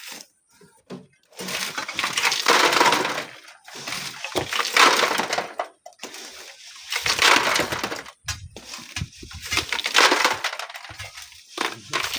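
Sand and gravel being scooped and thrown by shovel, a gritty crunching scrape four times, about every two to three seconds.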